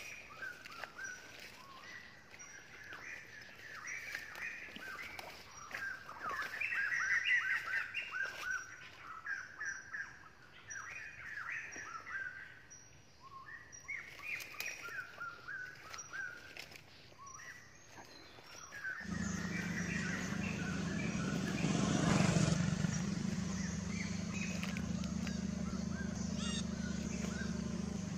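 Birds chirping and twittering in short, quick calls. About two thirds of the way in the sound switches abruptly to a steady low hum with hiss.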